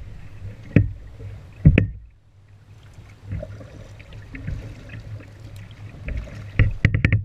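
Kayak being paddled through shallow flood water: sharp knocks and splashes of the paddle, one about a second in, another near two seconds, and several in quick succession near the end, over a low steady rumble.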